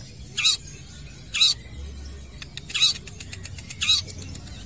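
Long-tailed shrike (cendet) calling: four short, loud calls about a second apart.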